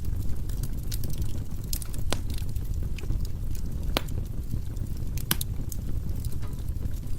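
Wood fire burning in a fireplace: a steady low roar of the flames with scattered crackles and sharp pops from the burning logs, the loudest about two, four and five seconds in.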